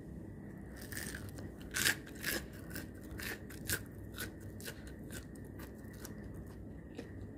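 A crisp, freshly fried rava (semolina) bonda being bitten and chewed close to the microphone: a run of sharp crunches starting about a second in, the loudest about two seconds in, the sign of a crispy crust.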